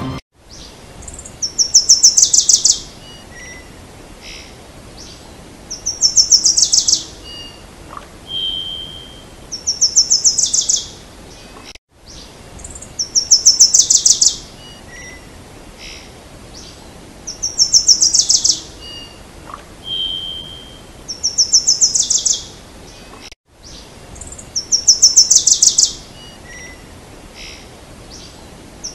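A songbird singing: a loud, fast, high trill phrase about every four seconds, with short softer chirps between. The same stretch of birdsong repeats, looped with a brief dropout about every eleven and a half seconds.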